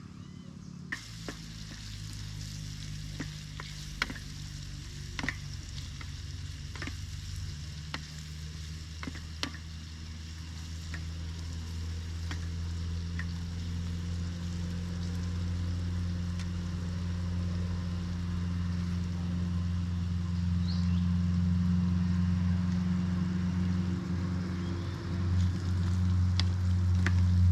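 Food frying in a pan at camp: a steady sizzle with scattered sharp pops in the first ten seconds or so, over a low steady hum that grows louder toward the end.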